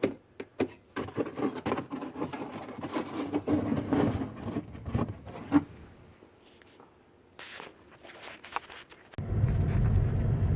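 Scattered clicks and knocks of handling, then after a short lull, about nine seconds in, the steady low rumble of a 2008 Mazda 5 driving on the road starts abruptly, heard from inside the cabin.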